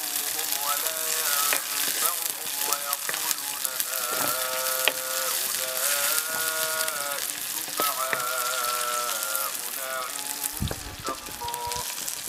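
Chopped green peppers sizzling in a black frying pan over a wood fire, stirred with a wooden spatula that gives an occasional sharp scrape or click on the pan. A melody of long, wavering held notes plays over the sizzle.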